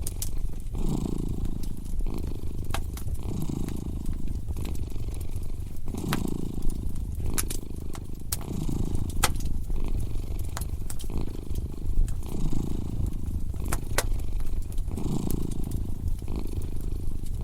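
Cat purring in slow cycles, swelling with each breath about every second and a half to two seconds, mixed with the sharp crackles and pops of a fireplace fire scattered throughout.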